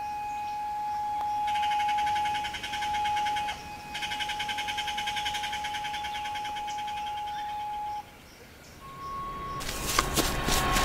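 Trailer soundtrack: one high tone held steady for about eight seconds, joined in two stretches by a fast pulsing chirr. Near the end a loud, noisy rush with rapid clicks sets in.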